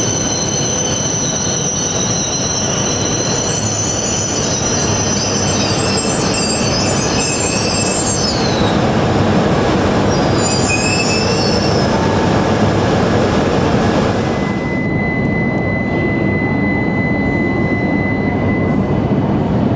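H5 series and E6 series coupled Shinkansen pulling into the platform, with running noise and high brake and wheel squeal tones that glide down and fade about eight or nine seconds in as it slows to a stop. About fifteen seconds in the sound switches abruptly to a steadier train rumble with a faint steady high tone.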